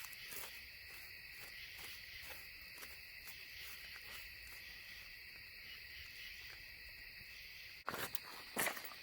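Steady chorus of crickets trilling, with scattered faint clicks. About eight seconds in come a few louder sharp cracks.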